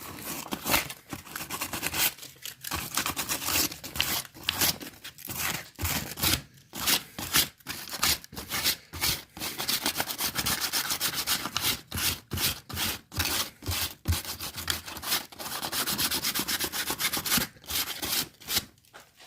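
Sandpaper rubbed by hand on tyre rubber in rapid back-and-forth strokes, roughening the area around the puncture ready for a patch.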